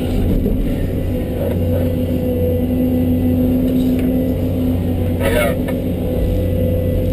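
John Deere 650D LC excavator's diesel engine running steadily, a constant drone with a few steady tones. A short hiss cuts in briefly about five seconds in.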